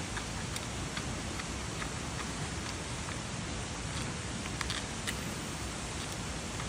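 Giant panda chewing bamboo: irregular crisp cracks and crunches of the stalks breaking between its teeth, a few in quick succession near the end, over a steady background hiss.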